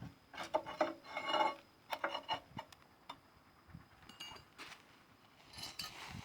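Light metallic clinks and taps of hand tools against steel undercarriage parts. Several come close together in the first two and a half seconds, then only a few faint ticks follow.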